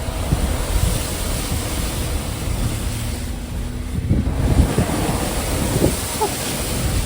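Wind buffeting the phone's microphone: a steady rumbling rush that gusts louder about four seconds in.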